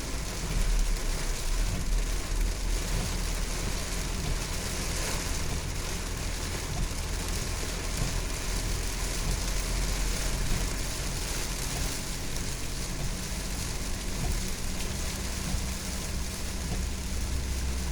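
Heavy rain falling in a steady hiss, with the low rumble of a car underneath.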